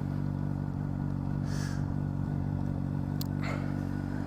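A 2009 Honda CBR600RR's inline-four engine idling steadily.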